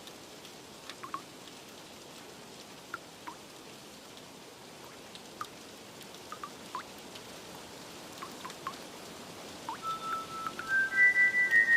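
Steady rain with scattered single water drips plinking. Near the end, soft ambient music with held high notes comes in.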